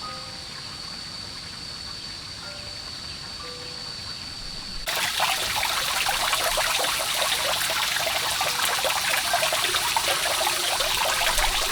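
Water running and splashing, starting suddenly about five seconds in as a loud, dense crackling rush that stops abruptly at a cut. Before it there are only faint hiss and soft background music notes.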